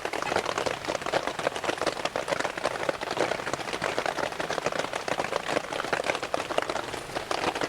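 Steady rain falling on a tarp overhead, a dense patter of many small drops.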